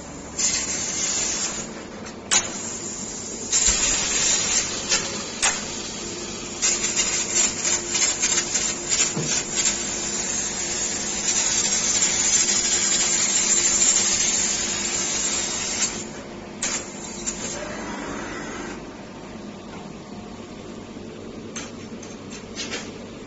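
2 kW fiber laser cutting machine at work, its cutting head hissing with assist gas in long stretches broken by short clicks, the longest run lasting about ten seconds. Near the end the hiss stops, leaving a quieter steady machine hum with a few clicks.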